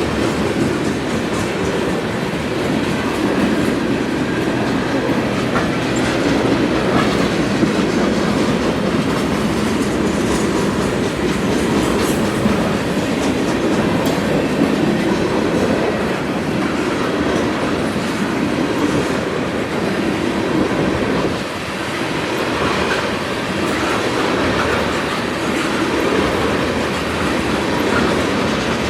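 Freight train cars rolling past on the rails, a loud, steady rolling noise of steel wheels on track with no letup.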